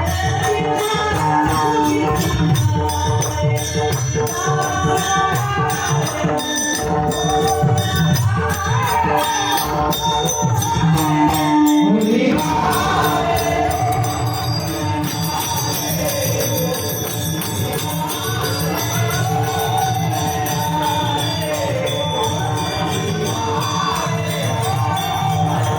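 Marathi devotional gavlan song: a voice singing a gliding, ornamented melody over sustained instrumental tones and a steady beat of hand percussion with jingles.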